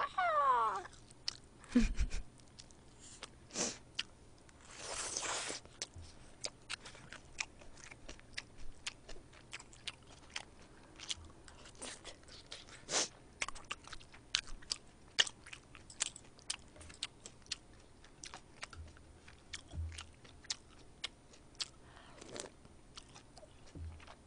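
Close-miked chewing of spicy stir-fried pork and kimchi: wet mouth clicks and smacks several times a second, with a brief rushing noise about five seconds in.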